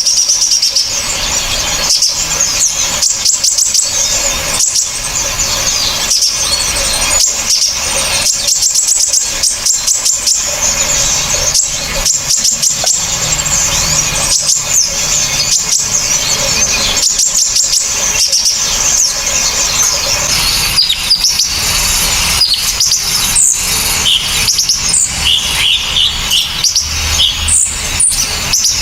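Small songbirds singing sharp, high-pitched chirps and rapid trills in dense unbroken runs. In the last third, separate sharper whistled notes stand out.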